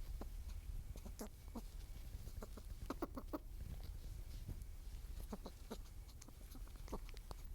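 Outdoor nature ambience: scattered short clucking animal calls and light clicks, bunched around the middle and again later, over a steady low rumble.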